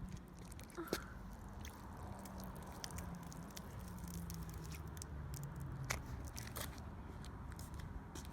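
A cracked giant Orbeez water-gel ball being squeezed in the hands: faint wet squishing with scattered small clicks.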